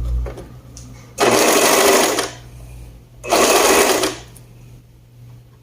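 Two-needle sewing machine stitching in two short runs of about a second each, stopping and restarting in between.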